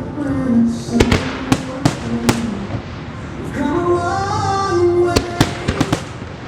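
Fireworks shells bursting with sharp bangs, a handful about one to two seconds in and a quick run of them near the end, over loud melodic show music.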